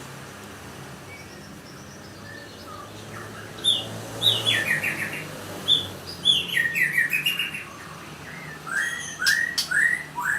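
White-rumped shama (murai batu) singing. After about three and a half quiet seconds come loud phrases of clear, whistled notes sliding downward, and near the end a run of quick repeated notes.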